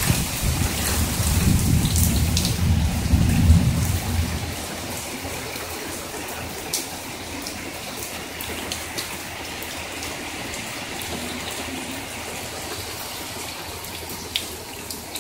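Heavy summer rain falling steadily, with scattered drops tapping sharply. A loud low rumble under it dies away about four seconds in, leaving the rain a little lighter and even.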